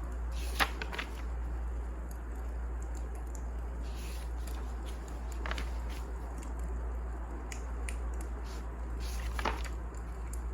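Wood fire crackling: a few sharp pops and scattered small ticks over a steady low rumble.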